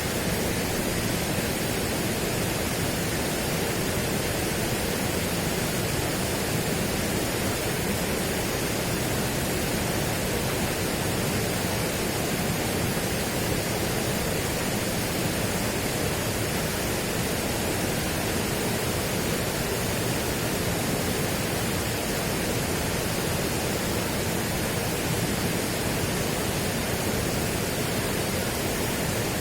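A steady, even rushing noise that does not change, with no breaks or separate sounds in it.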